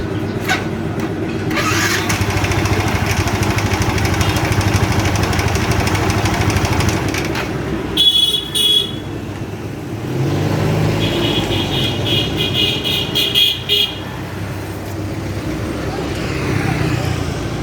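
Motorcycle engines running in street traffic, with horns sounding: a short beep about eight seconds in and a longer warbling horn a few seconds later.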